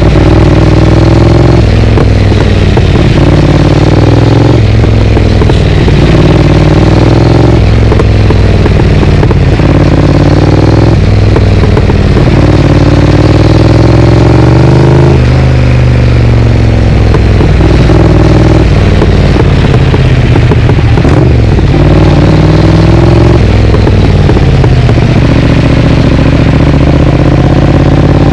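Triumph Speed Twin's parallel-twin engine, loud through a Vance & Hines aftermarket exhaust, accelerating over and over. Its note climbs steadily and then falls away abruptly about eight times as the bike shifts up or rolls off the throttle.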